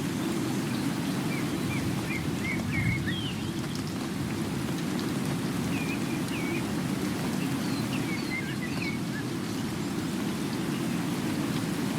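Steady rain, heavy and even, with birds chirping in short bursts of notes three times.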